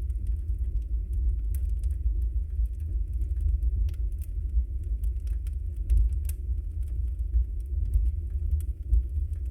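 Log fire burning in a fireplace: a steady low rumble of the flames with irregular sharp crackles and pops, a few of them louder.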